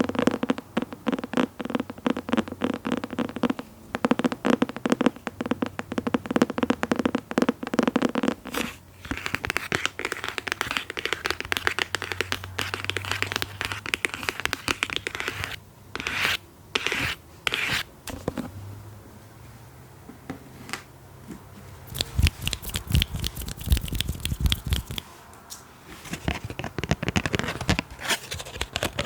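Close-miked ASMR scratching and tapping in rapid strokes, coming in several runs with short pauses between.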